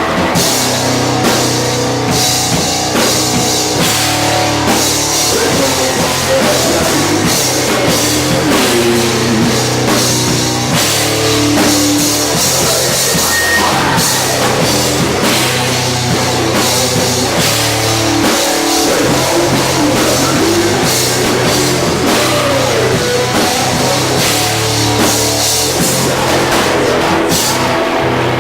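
Loud heavy rock played live by a band: a drum kit pounding under amplified bass and guitars, with held low bass notes.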